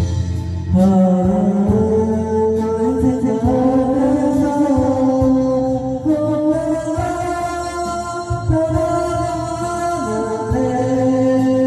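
Karaoke backing track of a slow ballad playing: a held melody line moving in long, stepwise notes over a steady bass.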